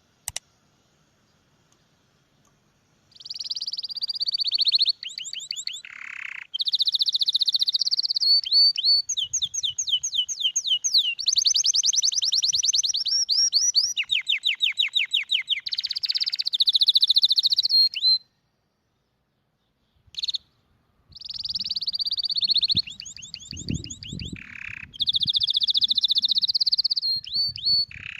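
Canary singing: long rolled phrases of rapidly repeated high notes and sweeping trills, beginning about three seconds in. The song breaks off for a few seconds past the middle, then resumes.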